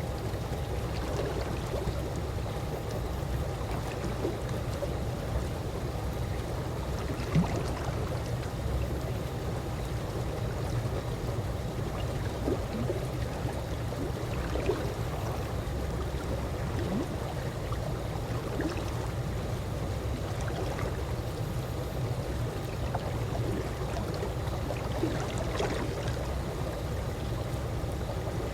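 Calm swimming-pool water moving steadily, with small watery plops and drips scattered throughout and one slightly sharper splash about seven seconds in.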